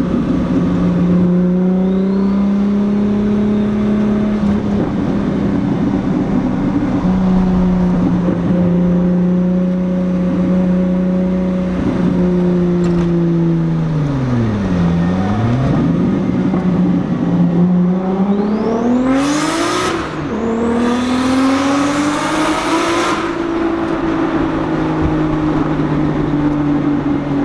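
Engine of a turbocharged RB-swapped Datsun Z running steadily while driving. Its pitch drops sharply and comes back up about halfway through. It then revs up hard with a loud rushing noise and settles at a higher, steady pitch.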